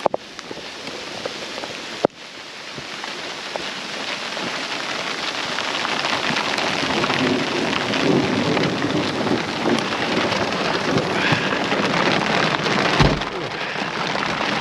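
Heavy rain mixed with hail pelting down, growing steadily louder. A sharp knock about two seconds in and a low thump near the end.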